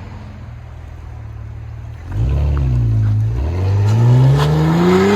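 2019 Audi SQ5's turbocharged V6 exhaust with the muffler and resonators cut off, only the middle resonator left. The engine idles with a low, steady note; about two seconds in it blips once, then revs up in a long, steady climb in pitch.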